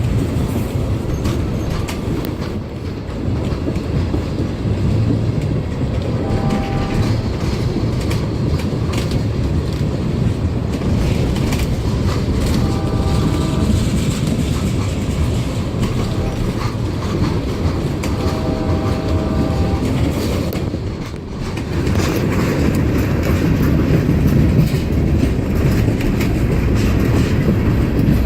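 Two CSX diesel locomotives passing slowly, with a steady low engine rumble and wheels clacking over the rail joints. Short high tones come and go three times.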